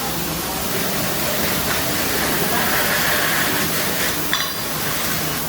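Pressure washer spraying water over an engine: a steady, loud hiss.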